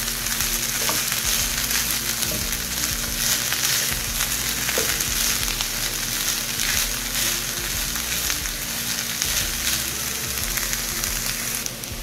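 Shredded chicken sizzling steadily in a nonstick frying pan as it is sautéed, with a wooden spatula stirring and scraping through it. The hiss eases slightly near the end.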